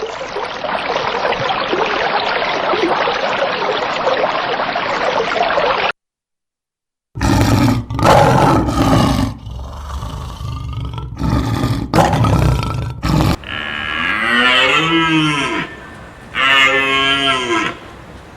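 Six seconds of steady hiss-like noise, a short break, then rough, loud low calls followed by cattle mooing in long calls that rise and fall in pitch.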